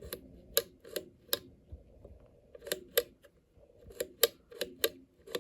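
About a dozen sharp, irregular clicks and light taps, each with a short ring, coming in small clusters.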